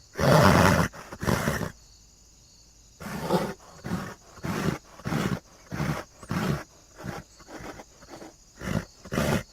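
Horse vocalizing: a loud call in the first second, then after a short pause a string of short bursts, one or two a second.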